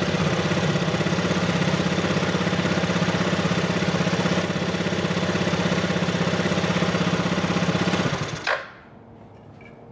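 Yamaha Vino SA26J 50 cc four-stroke scooter engine idling steadily, then shut off about eight and a half seconds in, leaving only faint background noise.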